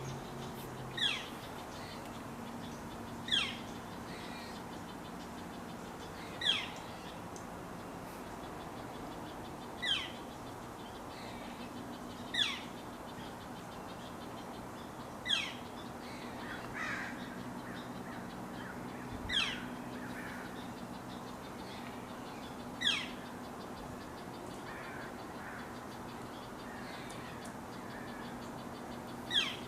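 A bird calling outdoors: one short, sharply falling call repeated about every three seconds, ten times in all, over a faint steady low hum.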